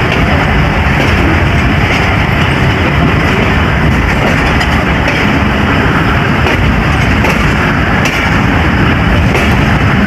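Passenger train running along the track: a loud, steady rumble and rail noise from the moving carriages, with faint scattered clicks.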